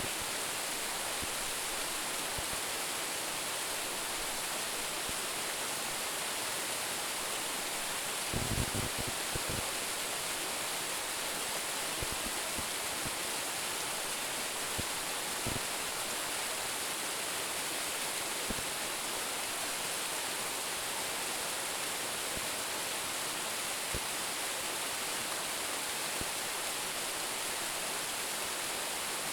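Roumon Falls, a waterfall of about 10 m, giving a steady, even rush of falling water. A brief cluster of low thuds comes about eight seconds in.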